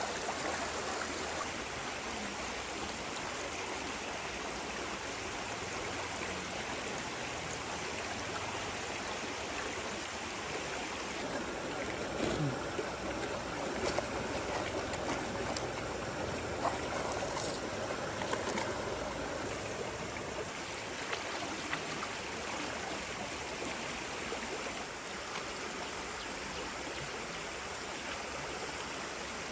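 Forest stream running over rocks, a steady rush of water, with a few light knocks and splashes about halfway through.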